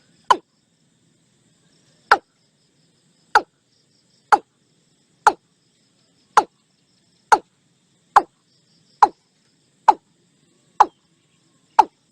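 Watercock calling: a series of short hollow notes, each falling in pitch, repeated at about one a second.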